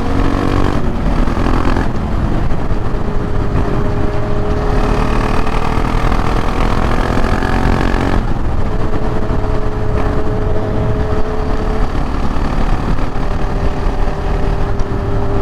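KTM 690 Duke R's single-cylinder engine pulling the bike along, its pitch climbing slowly and dropping back at gear changes about one, two and eight seconds in, under heavy wind noise on the helmet microphone.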